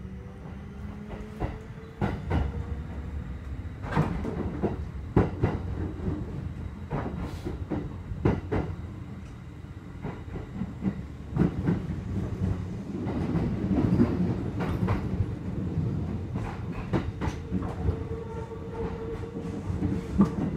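Kintetsu 2610 series electric train running, heard from inside the passenger car: a steady low rumble with a faint rising motor whine at the start as it picks up speed, and sharp clicks of the wheels over rail joints throughout. A steady hum comes in near the end.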